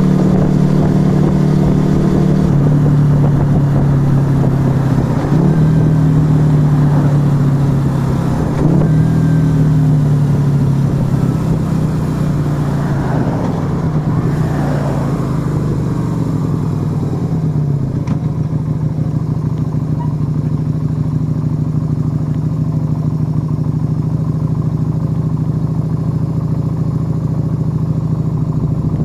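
Yamaha XV125 Virago's small V-twin running through a Turbo Kit aftermarket exhaust while riding, its note rising and dropping with changes of speed over the first half, then holding one steady note for the last ten seconds or so.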